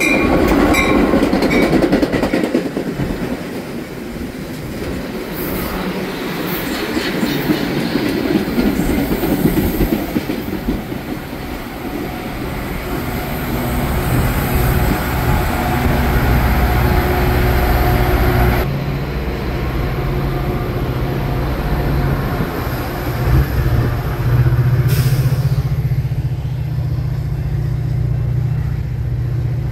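Metra commuter train of bi-level gallery cars pulling in past a station platform, its wheels clicking over rail joints as it arrives. A steady low engine drone sets in about halfway through and carries on to the end.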